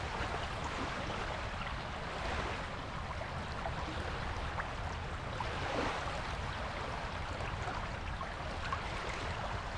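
Waves washing on a beach: a steady rush of surf that swells a little about two seconds in and again near six seconds, over a low rumble.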